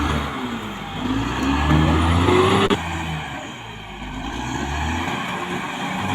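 Caterpillar D6R XL bulldozer's diesel engine working under load, its pitch rising and falling as the revs change. There is an abrupt change in the sound a little under three seconds in.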